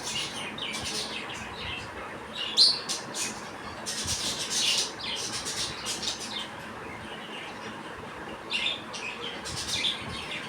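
Budgies chirping in quick flurries of short, high calls, the sharpest chirp about two and a half seconds in and a dense run of calls a little later.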